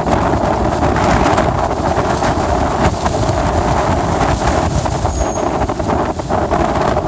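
Blizzard wind buffeting the microphone: a loud, steady rush of noise with a heavy low rumble.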